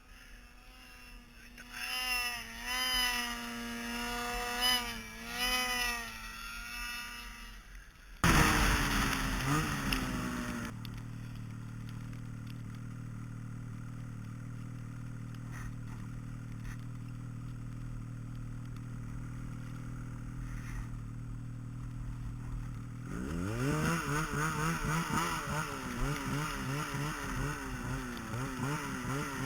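A vehicle engine: it starts loudly about eight seconds in and falls in pitch, runs at a steady low hum for about twelve seconds, then revs up and down with a wavering pitch near the end.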